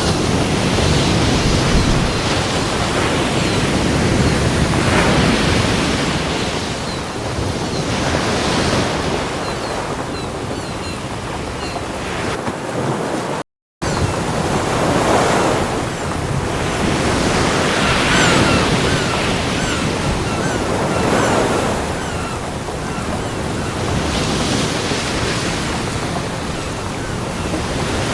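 Ocean waves breaking and washing up a beach, a continuous rush that swells with each wave every few seconds. The sound cuts out for a split second near the middle.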